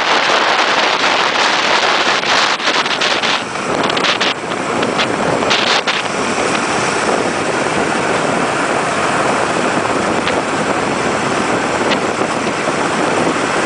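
Steady, loud rush of wind on the microphone and the hiss of an ice boat moving over the ice, with a few short clicks and knocks in the first six seconds.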